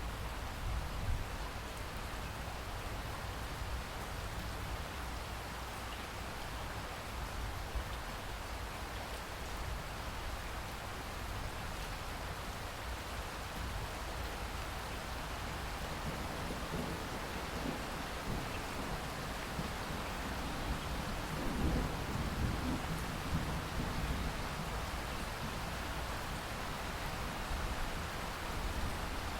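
Steady heavy rain falling, with a low rumble of thunder swelling up about halfway through and fading again.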